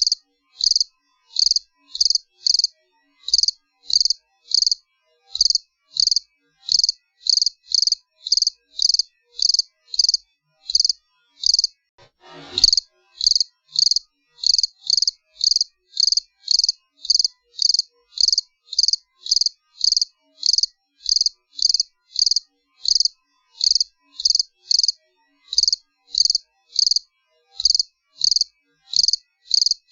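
Cricket chirping: short, high-pitched chirps repeated at an even pace of about two a second. The chirping breaks off briefly about twelve seconds in, where a short whoosh-like noise sounds, then carries on.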